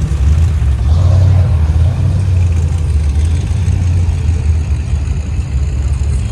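Classic car's engine running with a loud, steady deep rumble as it drives out.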